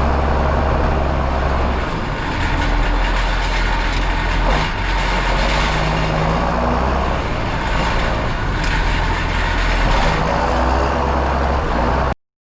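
Large farm tractor's diesel engine running steadily, its pitch shifting a little now and then; the sound cuts off suddenly near the end.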